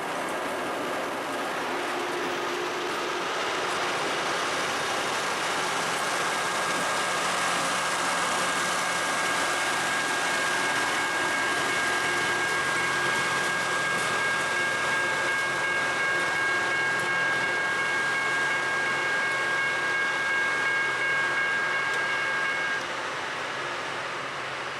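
LORAM rail grinder running, a steady dense machinery noise with a steady high whine in it; the whine stops and the sound begins to fade near the end.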